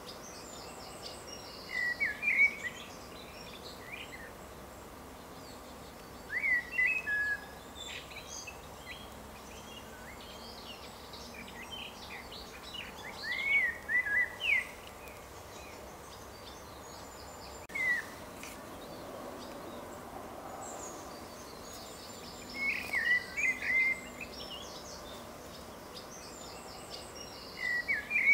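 A songbird singing short, quick phrases every several seconds, with fainter higher chirps, over a steady outdoor background hiss.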